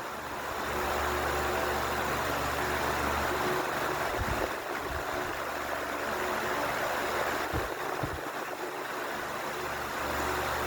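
Ventisol 60 cm wall fan running: a steady rush of air from the blades over a low motor hum, with a few brief low thumps.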